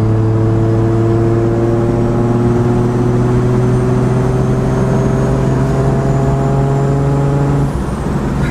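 Turbocharged Nissan RB25 straight-six in a 240SX, heard from inside the cabin, pulling hard under load: its note climbs slowly and steadily for about seven seconds, as in a long pull in a high gear. Near the end the note drops and the sound dips briefly.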